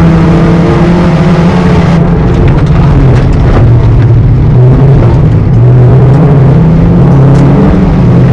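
A front-wheel-drive dirt rod race car's engine, heard loud from inside the cabin, running hard under racing load. The revs drop for a few seconds in the middle and climb again near the end, with a few sharp clicks over the noise.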